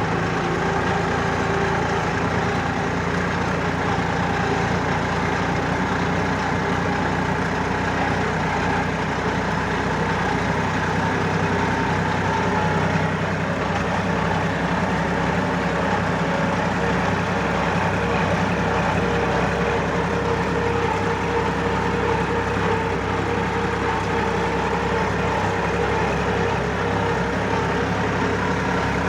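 Four-wheel-drive tractor's diesel engine running steadily, driving a rotavator tilling the soil.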